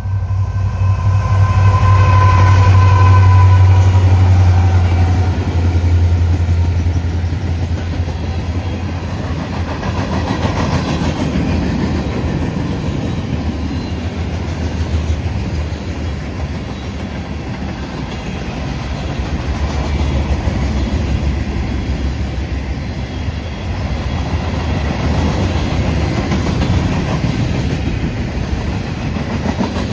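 CSX manifest freight train passing. The diesel locomotives run by loudly, with a horn chord held for the first few seconds and sagging slightly in pitch. Then comes a steady rumble and clatter of freight cars rolling over the rails.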